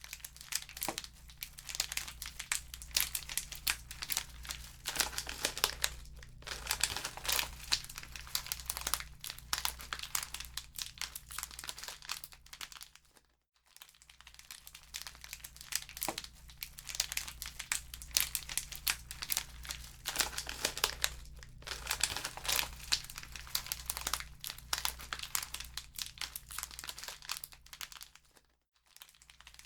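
Wood fire in a fireplace crackling, with dense, irregular small pops over a steady low rumble. The sound cuts out briefly about 13 seconds in and again near the end, then fades back in.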